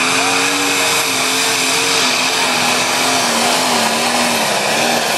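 Competition pulling tractor's engine running hard at high revs, its pitch sagging slowly through the pull.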